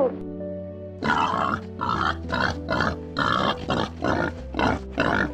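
An animal making a rapid series of short, rough grunts, about two or three a second, starting about a second in, over steady background music.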